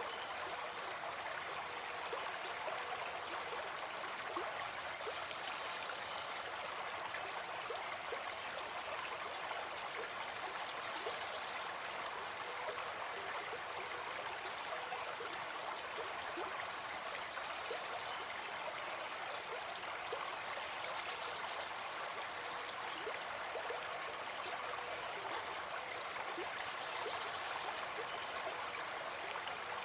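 Gentle forest stream flowing, a steady rush of water with small gurgles.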